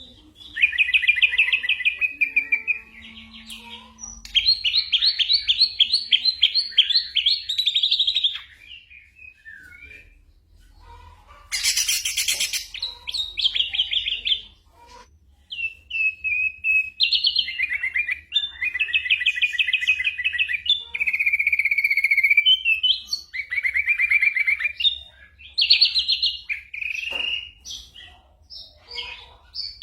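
Ashy drongo singing: phrases of rapid, buzzy trilled notes and short whistles, broken by brief pauses, with a harsh, noisy call about twelve seconds in.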